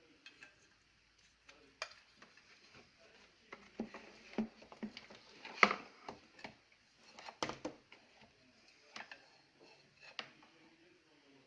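Irregular clicks, knocks and rattles of vacuum cleaner parts being handled while a new motor is fitted, with the sharpest knocks about five and a half seconds in and again about two seconds later.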